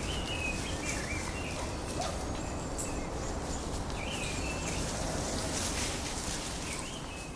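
Wild songbirds calling in woodland: short warbling phrases repeated every couple of seconds, over a steady low background rumble.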